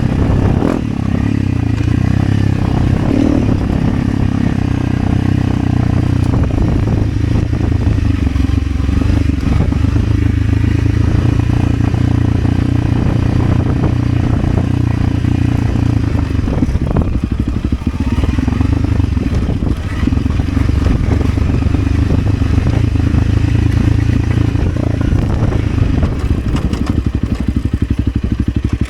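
Motorcycle engine running steadily, with brief dips in level about a second in and about two-thirds of the way through.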